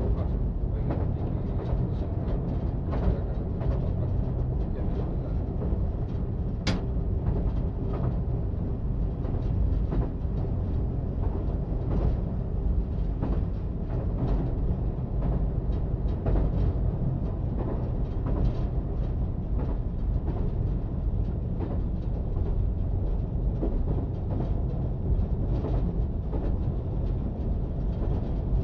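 Diesel multiple unit running steadily at speed on the track: a continuous low rumble with irregular wheel clicks from the rails, one sharper click about seven seconds in.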